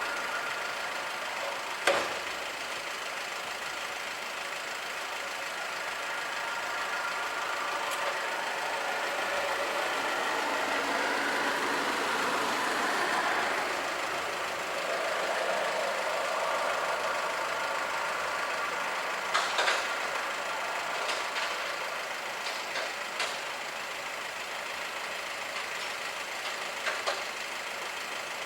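Motor vehicle engine idling steadily, with a few short sharp clicks or knocks, one about two seconds in and several more in the last third.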